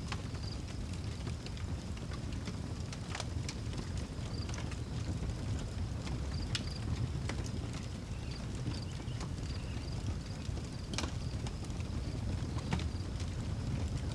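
Outdoor wood fire crackling, with scattered sharp pops over a low steady rumble. Crickets chirp in a faint, steady high pulse throughout.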